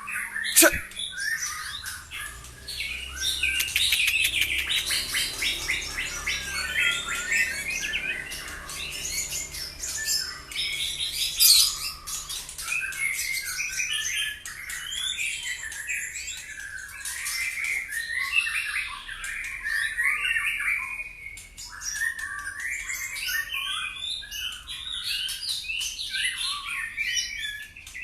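White-rumped shama (murai batu) singing continuously: a long run of fast, varied chirps, trills and whistles that includes mimicked phrases of other birds (its 'isian'). A sharp click sounds just after the start.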